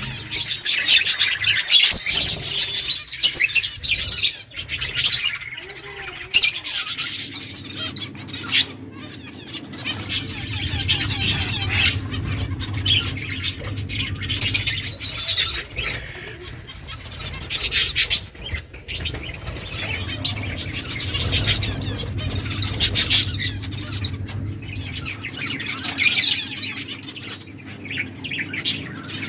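Small pet finches chirping, with bursts of high twittering calls coming again and again. A low steady hum runs underneath from about seven seconds in.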